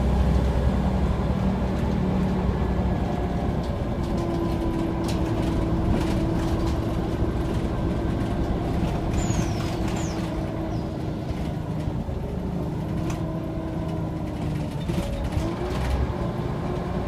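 Scania OmniCity single-deck bus running on the road: steady low engine and drivetrain rumble, with a thin whine over it from a few seconds in and a few light clicks and rattles.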